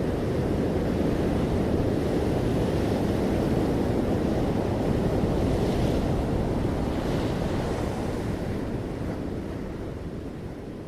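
Ocean surf: waves breaking and washing onto the shore in a steady rushing wash, with a couple of brighter swells midway, slowly fading down in the last few seconds.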